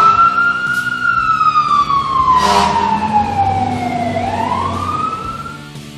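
Cartoon siren sound effect: one wailing tone that rises, sinks slowly for about four seconds, then rises again and cuts off shortly before the end. Two brief whooshes come at the start and about two and a half seconds in.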